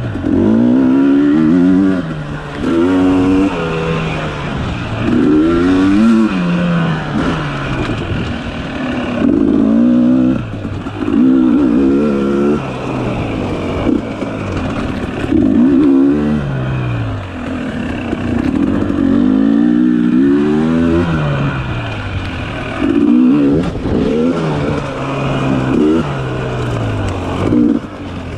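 Dirt bike engine revving up and dropping back again and again, its pitch rising and falling every couple of seconds as the throttle is opened and closed on twisting trail riding.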